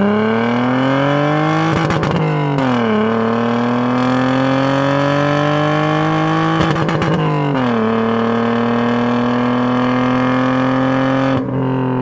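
BMW E36 engine and exhaust heard from inside the cabin, through an RR Performance muffler, accelerating hard through the gears. The note climbs, chops briefly against the rev limiter at the top, then drops at the upshift; this happens twice, about two and seven seconds in. The note drops again as the throttle eases near the end.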